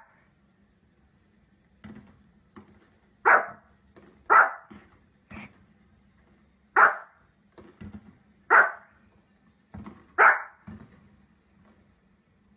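Small fluffy spitz-type dog barking at fireworks on a television: about five sharp, loud barks at uneven gaps, with softer yaps between them.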